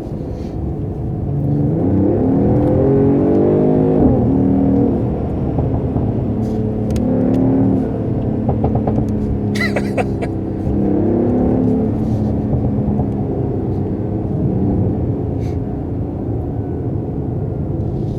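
Mercedes-AMG GT 4-Door Coupé engine accelerating hard. The pitch climbs and drops sharply at upshifts, with a short crackle about ten seconds in, then it settles into steadier running.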